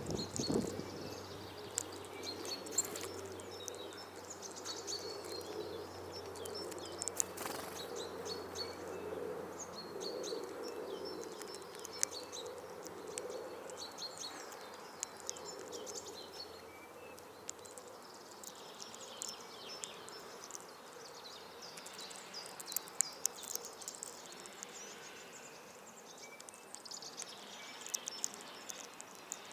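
Small garden songbirds chirping and calling at a feeder, with frequent sharp taps and clicks. A low hum is heard through the first half.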